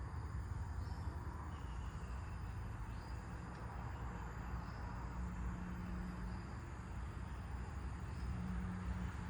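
Outdoor nature ambience: insects trilling steadily, with a few faint short bird chirps scattered through it, over a steady low rumble.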